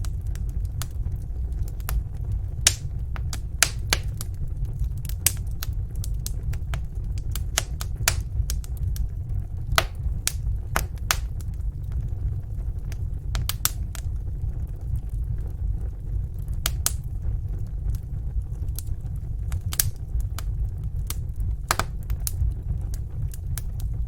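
Fireplace fire crackling, with irregular sharp pops and snaps, some louder than others, over a steady low rumble.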